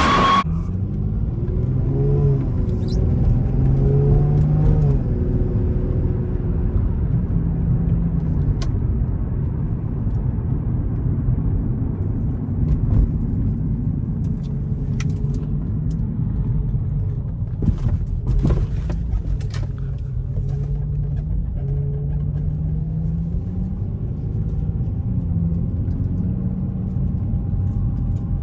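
Infiniti G35's VQ35DE V6 and exhaust running with a low rumble, the engine pitch climbing and dropping several times. The exhaust is a bit louder with the catalytic converters gutted.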